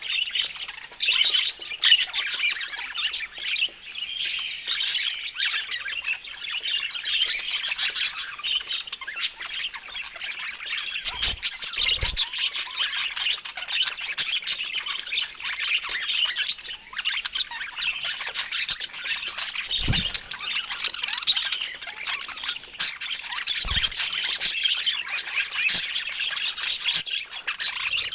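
Budgerigar chatter: a dense, unbroken warble of chirps and calls. A few dull low thumps come through it at intervals.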